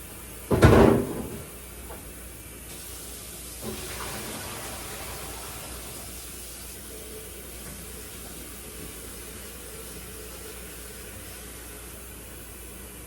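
A loud clunk about half a second in, then water running faintly, as from a sink tap.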